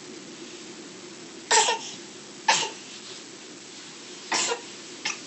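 Four short coughs, the first two the loudest, over a steady low background hum.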